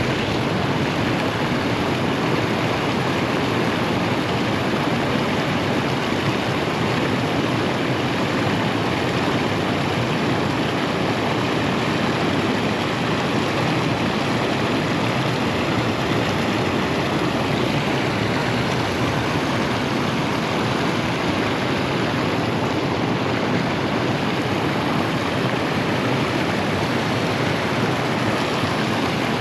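Steady rush of flowing water, an even, unbroken wash of noise.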